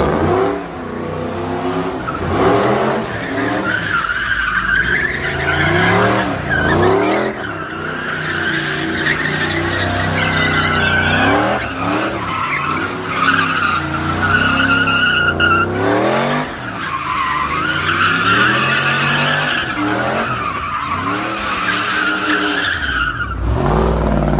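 A car's engine revving up and falling back again and again while its tyres squeal in long stretches.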